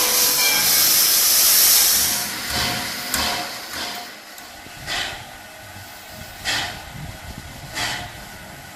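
Steam locomotive No. 93, a 2-8-0, lets out a loud hiss of steam for the first couple of seconds. The hiss then fades into slow, spaced exhaust chuffs, about one every second and a half, as the engine works.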